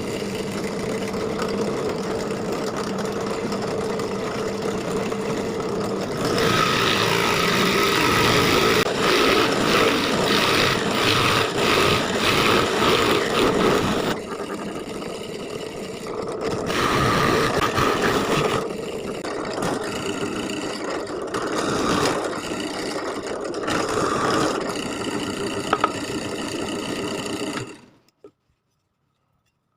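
Electric woodworking power tool running steadily, louder and rougher from about six seconds in while it works the wood, then stopping near the end.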